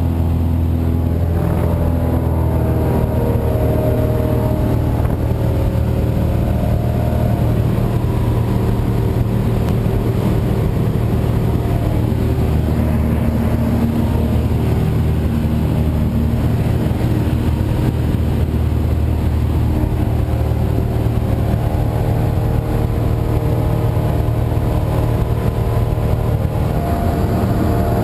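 Cessna 172's piston engine and propeller droning steadily in flight.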